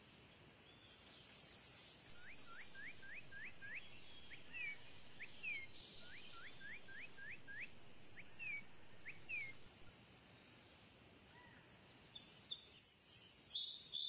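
Faint outdoor background noise with a small bird calling. It gives runs of four or five quick rising chirps from about two to ten seconds in, then a louder burst of higher, busier calls near the end.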